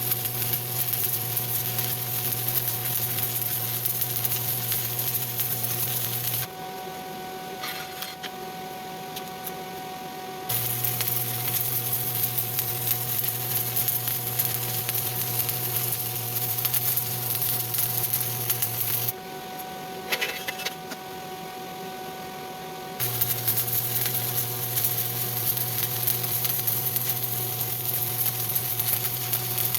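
Stick-welding arc crackling and buzzing steadily as overhead beads are run on steel plate. The arc stops twice for about four seconds, leaving only a steady machine hum, then strikes up again.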